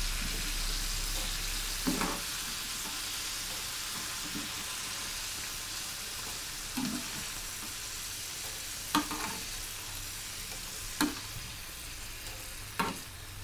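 French fries sizzling in hot oil in a pan, the sizzle growing slightly quieter, while tongs lift the fries out to drain. A few sharp clicks of the tongs against the pan.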